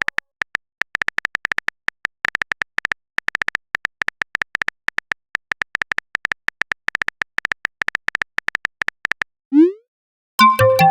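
Chat-app typing sound effect: rapid, irregular short electronic beeps, one per typed character. About nine and a half seconds in comes a short rising bloop, and near the end a brief chime like a message-sent notification.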